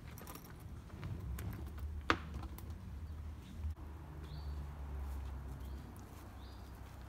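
Small plastic skateboard wheels rolling over asphalt with a low rumble, broken by light clicks and one sharp clack about two seconds in. The rolling fades out near six seconds.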